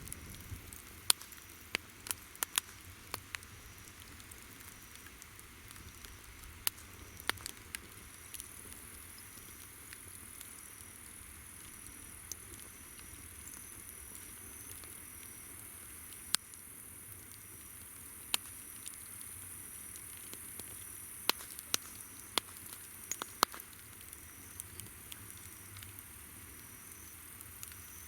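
Wood campfire crackling, with sharp pops every second or so. Behind it insects call: a steady high-pitched trill that grows stronger about eight seconds in, and a softer pulsing chirp beneath it.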